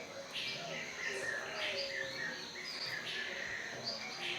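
Birds chirping and calling: a string of short chirps over a steady background of outdoor ambience.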